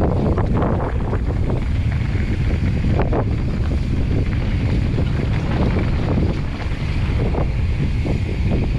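Wind buffeting a helmet- or bike-mounted camera microphone during a mountain bike descent, with the bike clattering and knocking over the trail in scattered sharp hits.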